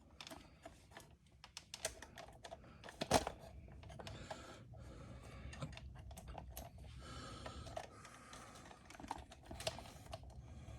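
Faint, irregular small clicks and light clatter of parts and tools being handled during motorcycle drivetrain work, with one sharper click about three seconds in.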